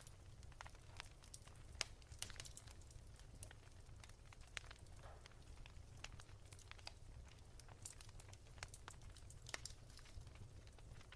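Wood fire crackling softly: irregular small pops and snaps, the sharpest about two seconds in, over a faint low steady rumble.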